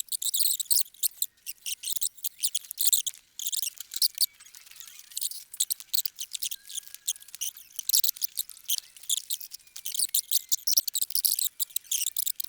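Dense, rapid high-pitched chirping and ticking, all thin and shrill with nothing low under it.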